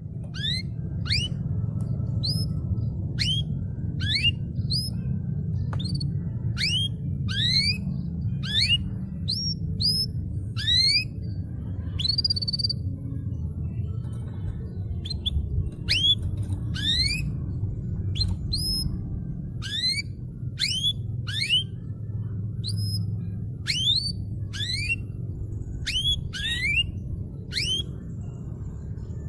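Canary singing: a run of quick, rising whistled notes, about one to two a second, with a short pause about halfway through. A steady low hum runs underneath.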